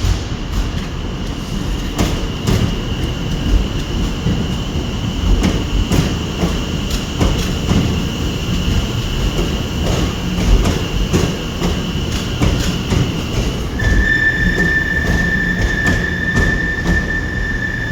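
A train moving through the station, with a low rumble and clicks over the rail joints. A steady high-pitched wheel squeal drops to a lower squeal about 14 seconds in.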